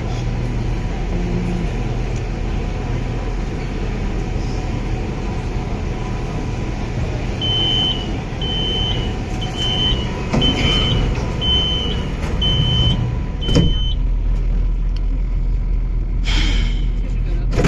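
Metro train door-closing warning beeps: about seven evenly spaced high beeps, starting about seven seconds in and stopping near thirteen seconds, over the steady low rumble of the train and station. A sharp knock follows, and a short hiss near the end.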